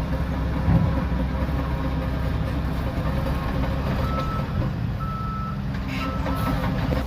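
Diesel engine of a Shantui DH17C3 bulldozer running steadily under a low rumble. About four seconds in, a reversing alarm beeps three times, about once a second.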